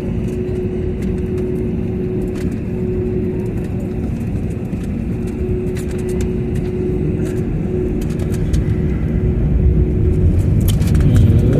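Airliner cabin noise on the ground: a steady low rumble of the engines and rolling gear with a constant hum, growing louder about ten seconds in.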